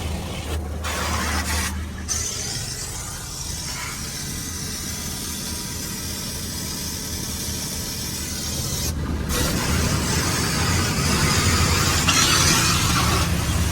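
Laserwash G5 touchless car wash spraying water and foam against the car, heard from inside: a steady hiss of spray over a low hum. The hiss grows louder and brighter about twelve seconds in.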